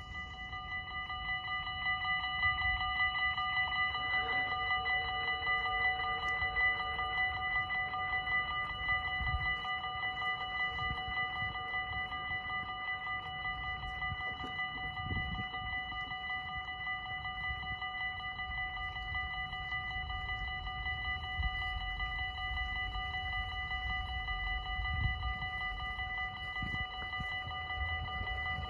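Dutch level-crossing warning bells ringing rapidly and continuously as the half-barrier crossing activates, swelling up over the first couple of seconds. A low rumble sits underneath.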